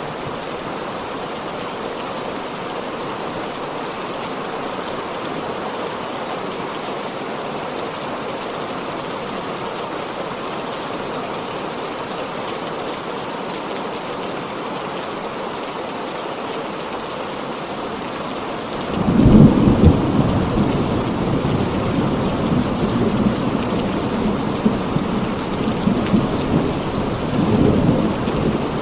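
Heavy rain falling steadily. About two-thirds of the way in, a thunderclap breaks in and rolls on as rumbling thunder, swelling again near the end.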